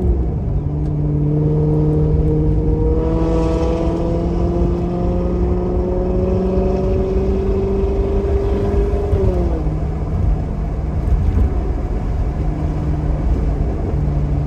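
2008 Maserati GranTurismo's 4.2-litre V8 running through a Kreissieg aftermarket exhaust. Its revs dip at the start, then climb slowly and steadily under load, fall quickly about nine seconds in, and hold steady after that.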